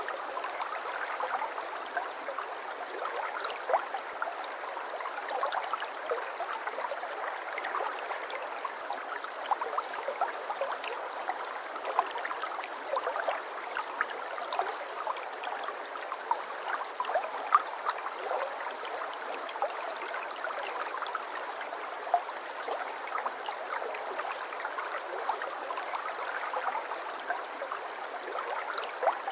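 Babbling brook: a small stream running over stones. It makes a steady rush of water, flecked with many small splashes.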